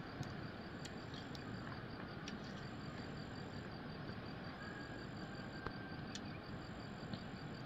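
Steady low background noise with a few scattered small clicks and taps.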